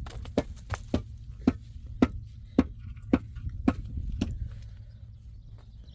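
A steady series of sharp knocks, about two a second, that stop about four seconds in, over a low steady rumble.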